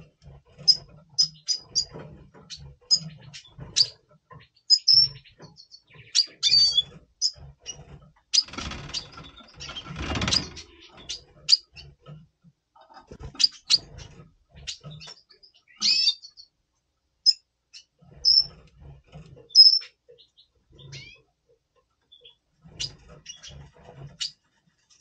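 Red siskins giving short, high chirps and twitters in breeding condition. About eight seconds in there is a burst of rustling noise lasting around two seconds.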